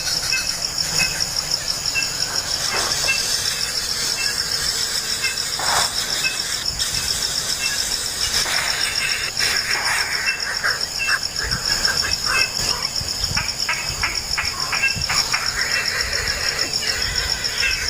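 Steady, rapidly pulsing insect chorus, with a cluster of short clicks and rustles in the middle.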